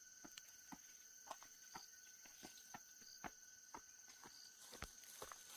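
Near silence: a faint steady high insect drone, like crickets, with scattered soft ticks, roughly two or three a second.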